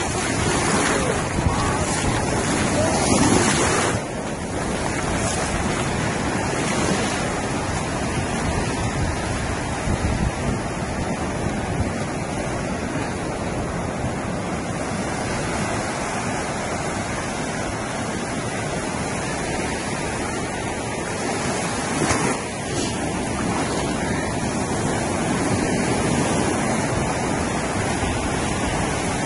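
Surf washing on a beach with wind rumbling on the microphone, a steady wash of noise that is louder for the first four seconds, then drops a little.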